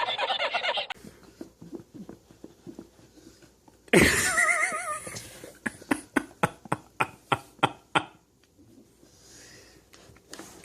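A dog's wavering whine or howl lasting about a second, followed by a quick run of sharp taps, about four a second, for a couple of seconds.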